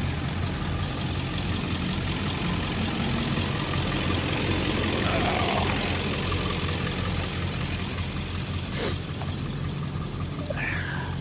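A truck engine idling with a steady low drone, with a brief sharp hiss about nine seconds in.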